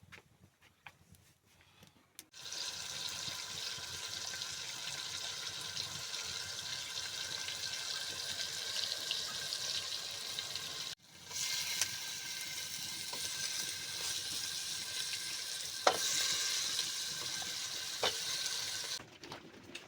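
Food frying in hot oil in a pan, a steady sizzle in two stretches with a sudden break about halfway, and a couple of sharp pops or clicks in the second stretch.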